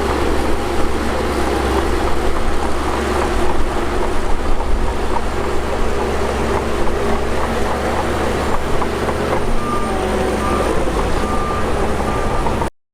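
Shantui DH17 bulldozer's diesel engine running steadily under load while pushing dirt. Near the end a row of short beeps sounds, then the sound cuts off abruptly.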